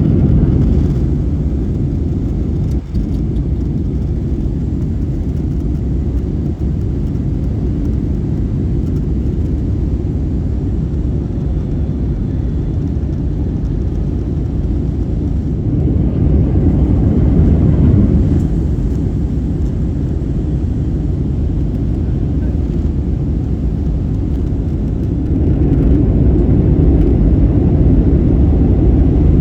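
Steady low rumble of a moving vehicle heard from inside, swelling louder twice, briefly in the middle and again near the end.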